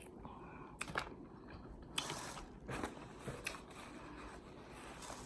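Faint, close-miked chewing: wet mouth clicks and smacks every second or so.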